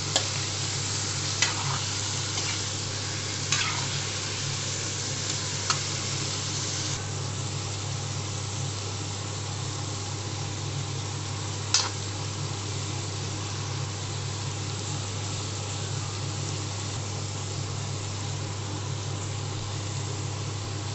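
Chicken pieces and onions sizzling steadily as they fry in mustard oil in a metal pan, a little softer about seven seconds in. A few sharp knocks of the stirring utensil against the pan come in the first six seconds and once more around twelve seconds in, over a steady low hum.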